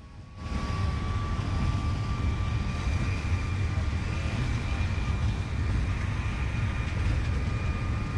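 Train running, a steady loud low rumble with a faint steady whine above it, starting suddenly about half a second in.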